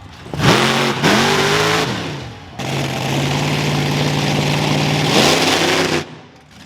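Monster truck engine revving: two quick blips, then held at steady revs for a couple of seconds, then revved once more before the sound drops away suddenly.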